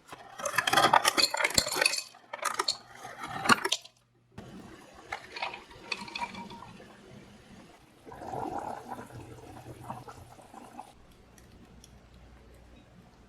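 Dishes and cutlery clattering and clinking, loudest in the first few seconds, followed by lighter clinks and some water.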